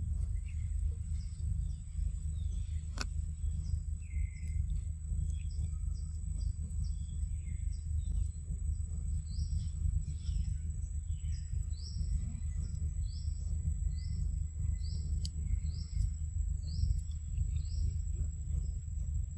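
Forest birdsong: a bird repeats short, high, slightly falling notes, one or two a second, from about halfway in, after scattered chirps earlier. Under it run a steady thin high whine and a constant low rumble.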